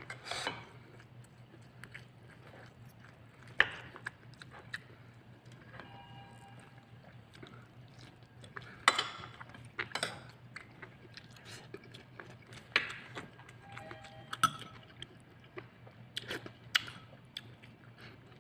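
Close-miked chewing with sharp, crisp crunches every few seconds, from a person eating a meal of water spinach (kangkong) and chicken.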